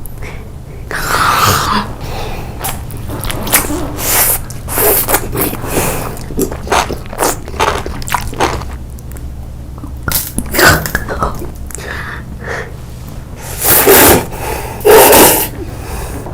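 Close-miked mukbang eating sounds: a run of bites and chewing, with several louder breathy bursts about a second in and again near the end.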